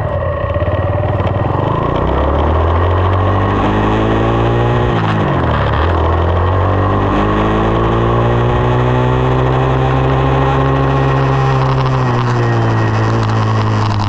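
2020 SSR 189 dirt bike's single-cylinder four-stroke engine running under throttle. The pitch climbs at first, dips sharply about five seconds in and comes straight back up, then holds fairly steady.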